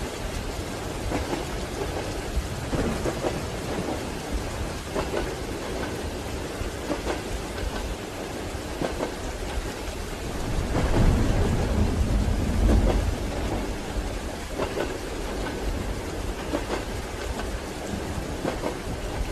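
Steady rain, with a low rumble of thunder that swells about halfway through and fades a few seconds later.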